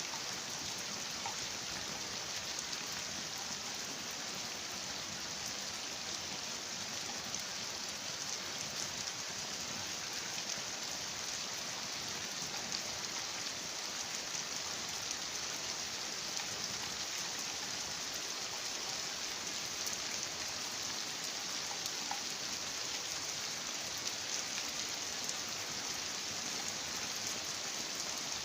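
Heavy rain falling steadily, a dense patter of drops on hard surfaces with occasional louder individual splashes.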